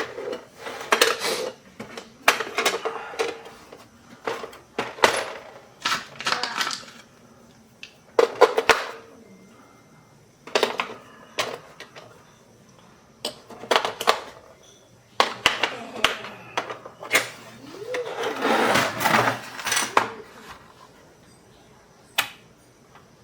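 Irregular clicks, knocks and rattles of hard plastic parts and small tools being handled while a toy electronic organ is taken apart, with a denser stretch of clatter near the end.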